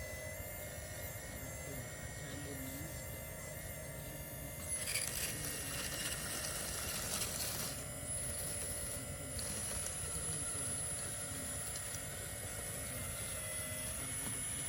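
Heavy machinery running: a steady engine rumble with a whine, and a louder rushing noise from about five to eight seconds in.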